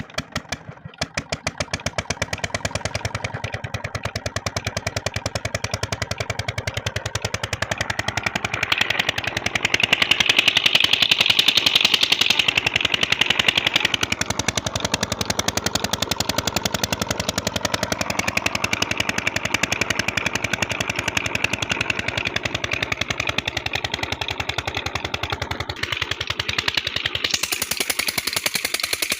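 Old diesel tubewell engine firing a few uneven strokes, catching, then running on with a regular chugging beat. A louder hissing rises over the engine about nine seconds in and eases off around thirteen seconds.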